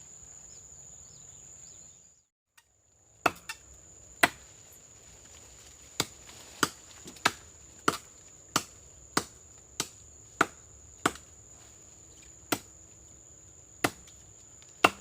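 Repeated sharp chops of a blade into a tree trunk, in a run of about one every two-thirds of a second, then sparser. A steady high insect drone continues behind the chops.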